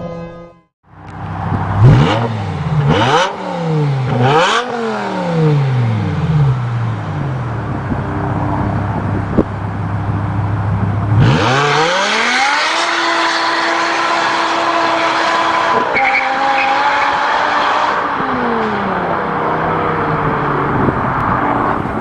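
BMW M5 E60's V10 engine and exhaust: three quick throttle blips, each rising and falling, then dropping back to a steady idle. About halfway through the engine climbs to a high, steady note with a rush of noise, holds it for several seconds, and then winds down.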